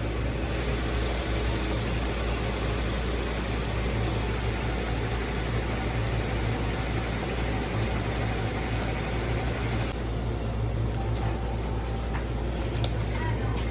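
A machine running steadily: an even rushing noise over a strong low hum, with a few short electronic beeps near the end.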